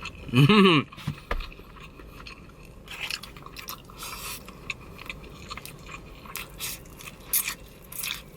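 Close-up chewing and biting of food, with wet crunches and smacks. About half a second in, a short loud hum from the eater's voice.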